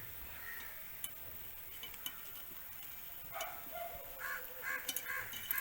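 Quiet outdoor background with a few small clicks; about three and a half seconds in, a bird starts calling, a quick run of short repeated calls.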